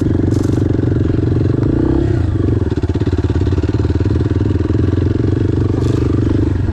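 Single-cylinder dual-sport motorcycle engine running steadily while riding on a bumpy, corrugated sand track, with a brief dip in the engine note about two seconds in.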